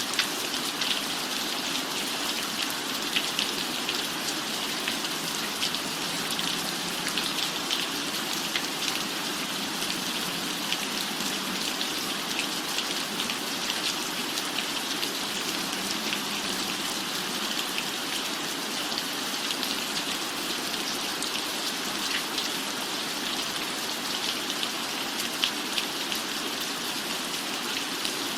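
Steady rain falling, an even hiss dotted with many small sharp ticks of drops striking a surface.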